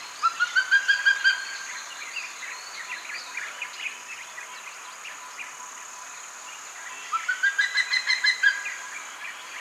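A bird calling in two runs of rapid, rising, yelping notes, one near the start and another about seven seconds in, with softer chirps between them. A steady high-pitched hiss runs underneath.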